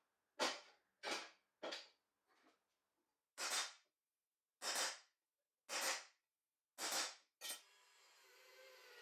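A series of sharp knocks or strikes, about nine in all, each short and fading quickly, irregularly spaced roughly a second apart, the fifth one faint. A faint steady hum comes up near the end.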